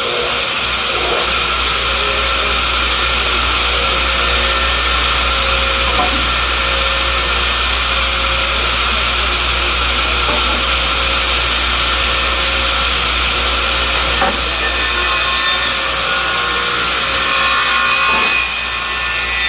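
Stringer trim saw running, its four circular blades spinning with a steady whine over a low motor hum as pallet stringers are cut. Twice in the last few seconds the sound turns brighter and harsher.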